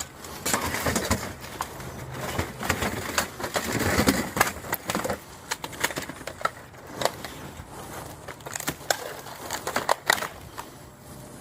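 Junk being handled and moved around: irregular clattering knocks and clicks of hard objects, with rustling and scraping, busiest in the first five seconds.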